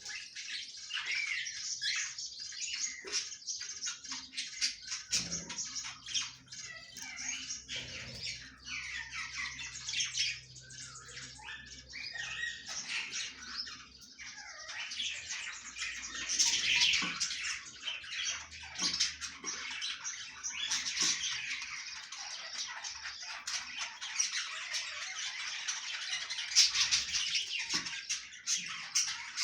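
A colony of budgerigars chattering and squawking, many birds calling over one another without a break.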